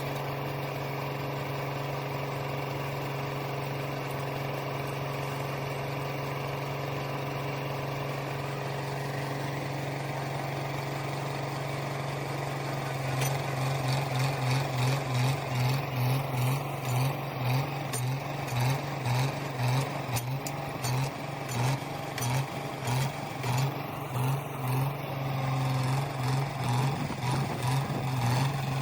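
A heavy machine's engine running steadily, then from about halfway through pulsing in loudness about once a second.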